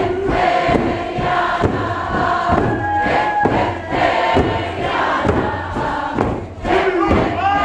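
A large group of men, women and children singing a Tlingit song together in chorus, with a steady beat about twice a second.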